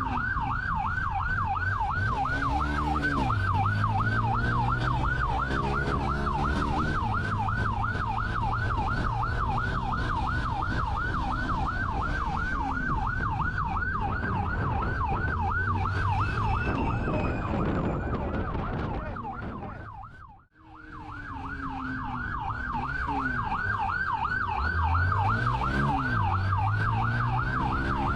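Police siren on a fast yelp, its pitch rising and falling about three times a second, over a vehicle engine that revs up a couple of times. The sound fades out to a brief silence about three-quarters of the way through, then comes back.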